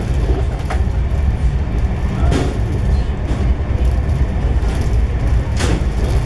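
Steady rumble and rush of a passenger coach of the Gatimaan Express running at speed on the rails, heard from inside the coach. Three short sharp clicks cut through it: about a second in, near the middle, and near the end.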